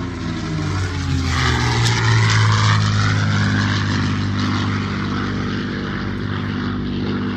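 P-51 Mustang's Merlin V12 engine running at power as the aircraft flies past. Its propeller drone grows louder over the first two seconds and then eases off a little.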